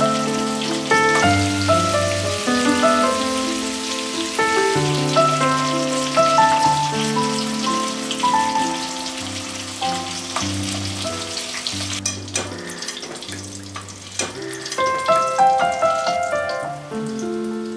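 Masala-coated fish steaks sizzling as they shallow-fry in oil, with background music of held melody notes over it. The sizzling cuts off about two-thirds of the way through, leaving the music.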